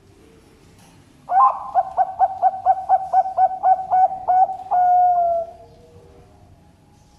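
Zebra dove (perkutut) cooing its song: a run of about a dozen quick, evenly spaced coos ending in one longer note that sinks slightly in pitch.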